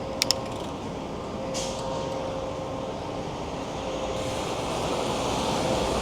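Riding noise of a bicycle in motion: a steady rush of wind and tyre rumble that grows louder toward the end, with two sharp clicks in quick succession right at the start.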